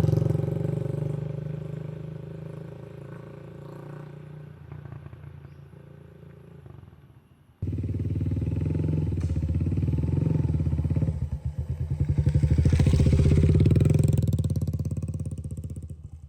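A motor vehicle engine running. It fades away over the first seven seconds or so, then a sudden cut brings it back louder. It swells again near the end and stops abruptly.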